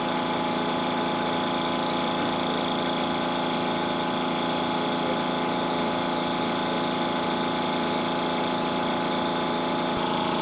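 Tuxing water-cooled high-pressure air compressor running steadily while it fills an air tank, a constant hum made of many tones. About ten seconds in the mix of tones shifts slightly.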